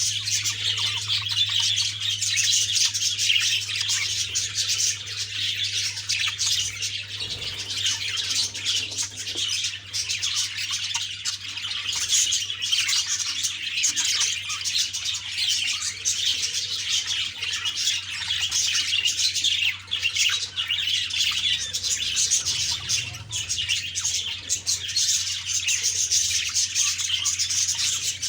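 Budgerigars chattering and chirping without pause in a dense, busy warble, over a steady low hum.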